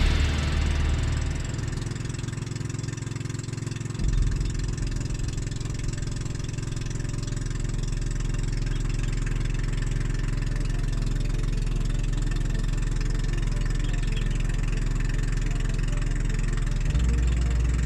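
Boat engine running steadily with a low drone. Its low end shifts about four seconds in and again near the end.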